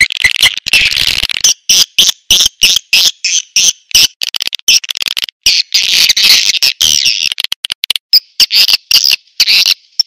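Edible-nest swiftlet calls used as a swiftlet-house lure sound: dense, rapid, irregular chirping and twittering, high-pitched and loud.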